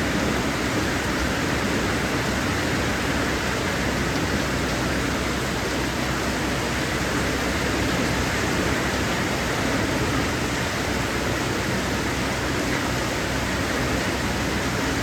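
Heavy rain pouring down with a steady, dense hiss.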